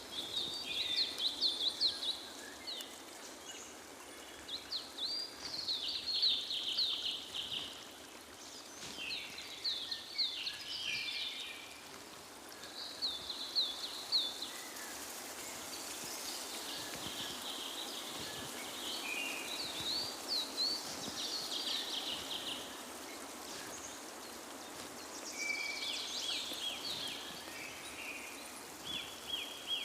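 Birds singing in short repeated phrases of quick up-and-down notes, one phrase every second or two, over a steady background hiss.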